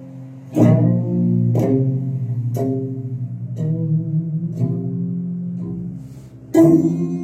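Instrumental music on a plucked string instrument: slow single notes about once a second, each ringing on, a short lull, then a stronger note near the end.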